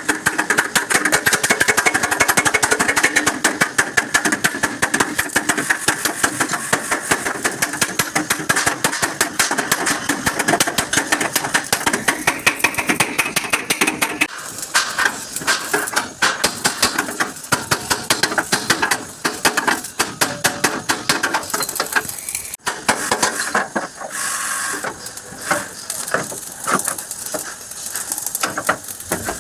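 Welding on a truck cabin's sheet metal: a dense, fast crackle, steady for about the first half, then broken and uneven.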